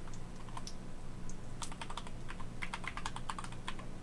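Typing on a computer keyboard: quick clusters of key clicks with short pauses between them, busiest in the second half, over a steady low hum.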